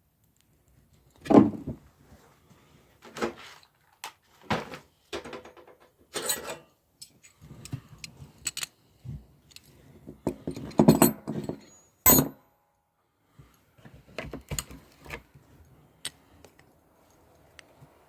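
Metal hand tools and parts clinking and clanking as they are picked up and worked, a string of separate knocks and rattles with short gaps between them. The loudest clanks come about a second in and about two-thirds of the way through.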